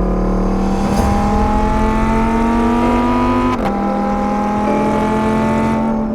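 Lamborghini Huracán EVO's naturally aspirated V10 accelerating, its engine note climbing steadily, with a gear change about three and a half seconds in that briefly drops the pitch before it climbs again.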